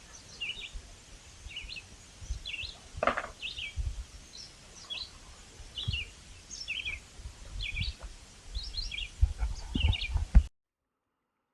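A songbird chirping, short high sweeping phrases repeated roughly once a second, over a low rumble. The sound cuts off abruptly near the end.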